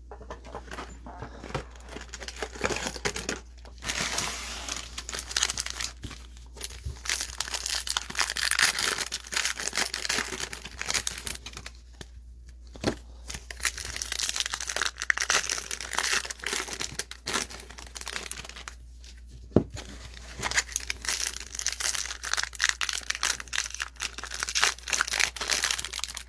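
Topps baseball card pack wrappers being torn open and crinkled, a dense crackling broken by a few short pauses.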